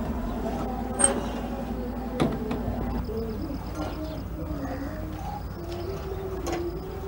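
Birds calling, with low cooing calls through the second half. For the first three seconds a steady low hum sounds underneath, then stops, and two sharp clicks fall near the first and second seconds.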